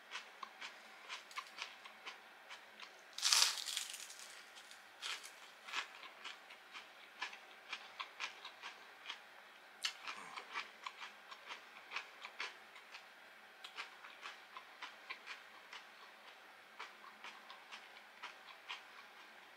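Chewing of crunchy deep-fried breaded food close to the microphone: irregular crisp crunches, about two a second. A short louder rush of noise comes about three seconds in.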